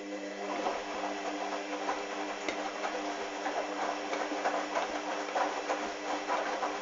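Hoover washing machine drum turning during the wash: a steady motor hum with wet towels tumbling and sloshing in the drum. The tumble stops near the end.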